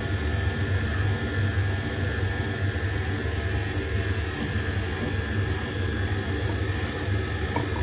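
Electric stand mixer (dough kneader) running steadily as it kneads pizza dough: an even low motor hum with a thin high whine over it.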